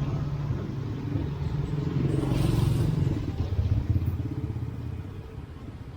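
A motorcycle passing close by on the street, its engine getting louder to a peak mid-way and then fading as it moves off.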